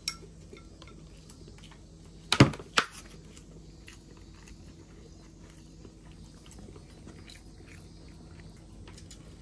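A person biting and chewing food: two sharp, loud bites a little over two seconds in, then quieter chewing.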